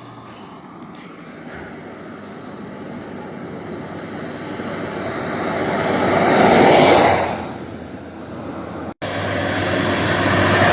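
Highway traffic: a vehicle approaches, gets steadily louder, passes at its loudest about seven seconds in and fades. After a sudden break, another vehicle is heard approaching.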